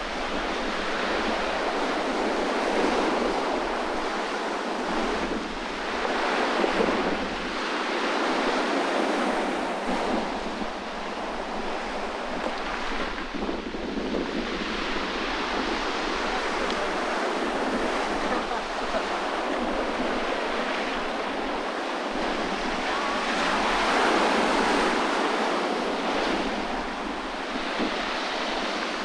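Sea waves breaking and washing on the shore, surging and easing every few seconds, with strong wind gusting over the microphone.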